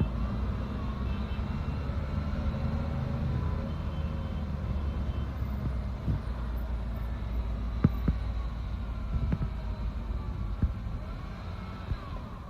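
Inside a moving bus: the steady low rumble of the engine and road, with a few sharp knocks and rattles toward the end.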